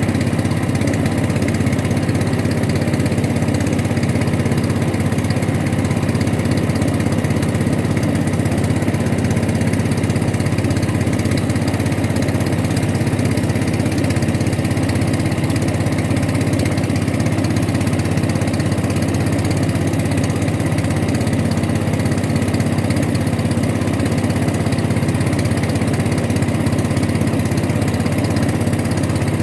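Boat engine running at a steady speed, an unbroken low hum with no change in pitch.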